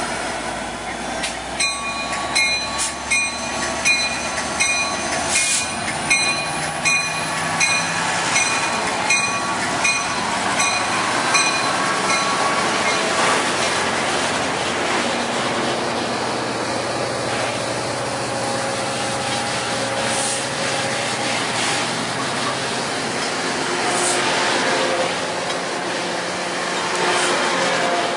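A Coaster commuter train departing: the EMD F59PHI diesel locomotive's engine runs under a bell ringing about twice a second for the first ten seconds or so. The locomotive and bilevel coaches then roll past with steady wheel and rail noise and a few wheel squeals near the end.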